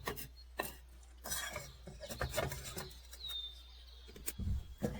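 Scattered clinks and knocks of a pan and utensils being handled while washing up. A single short bird chirp a little over three seconds in.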